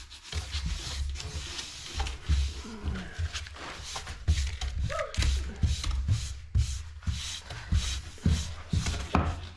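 Irregular hand rubbing strokes on a painted wooden drawer, from sandpaper or a dust brush worked back and forth, with low knocks of handling and a few short squeaks.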